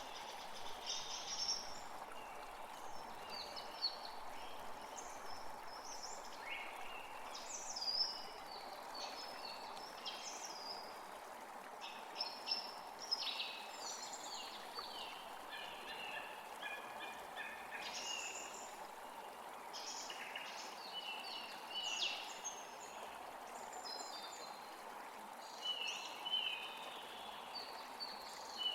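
Several songbirds chirping and trilling in quick, irregular calls over a steady background rush of noise.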